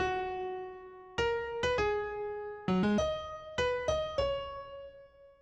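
Background music: slow electric-piano melody of single notes, each left ringing and fading, with a long-held note at the start and a last note dying away near the end.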